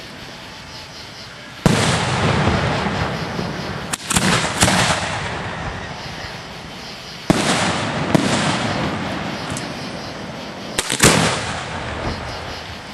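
Aerial firework shells going off at a display's firing site: about half a dozen sharp, loud reports a few seconds apart, each trailing off in a long rumbling echo.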